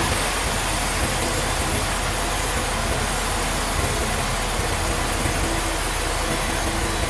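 Steady mechanical din of sawmill machinery running, an even noisy rush with a faint hum and no breaks.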